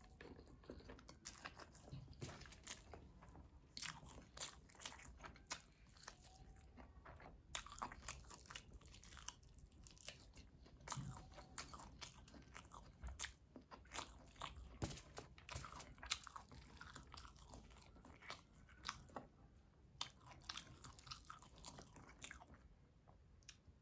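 A person chewing mouthfuls of mutton biryani eaten by hand: a steady run of short, sharp chewing clicks and mouth smacks, several a second.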